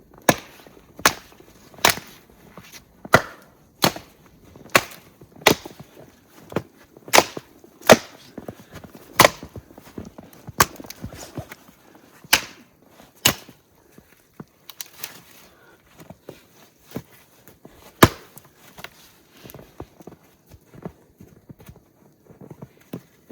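Firewood being chopped: sharp, loud strikes about once a second, thinning out to a few lighter ones after about 13 s, with one last hard strike near the end.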